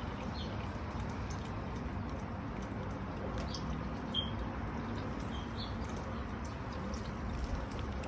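A bird gives a few short, high chirps, scattered a second or more apart, over a steady low background rumble.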